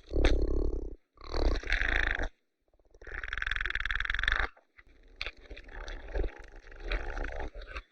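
Oryx calling: four or five short, rough sounds of about a second each, with brief silences between them.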